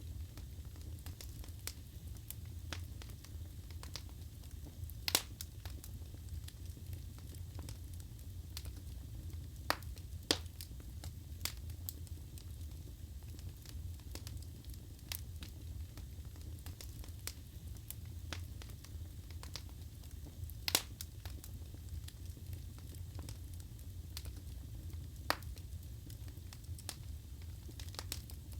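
Wood fire burning in a fireplace: a steady low rumble with irregular crackles and sharp pops from the burning logs, the loudest pops about 5, 10 and 21 seconds in.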